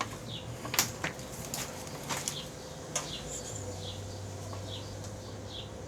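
Small birds chirping now and then, in short falling chirps, with a few sharp clicks and knocks over a low steady hum.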